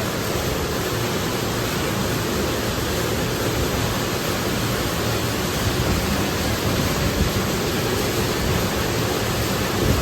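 Steady, even rushing noise of workshop machinery running, with no clear rhythm or strokes.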